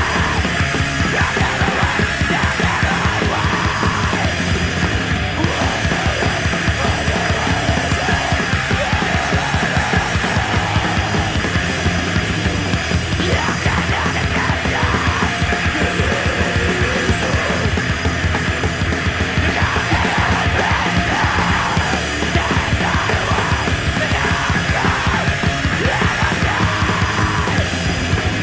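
Loud, aggressive heavy rock music played by a band, dense and steady with a fast, driving beat and shouted vocals.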